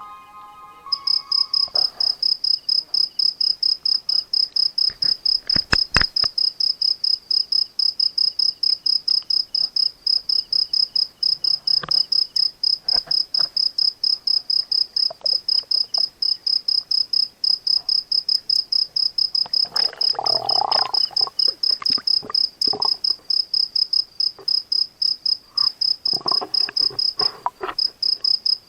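A cricket calling at night: a high, steady, pulsed chirp at about four pulses a second, with a short break near the end. A burst of rustling and a few sharp clicks come about two-thirds of the way through.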